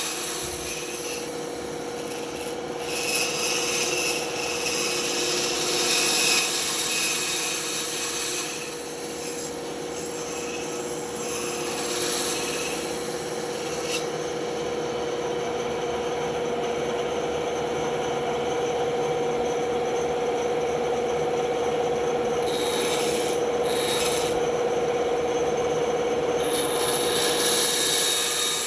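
Band saw running with a steady hum while its blade cuts through wood, giving a continuous rasping hiss that swells and eases as the cut goes on.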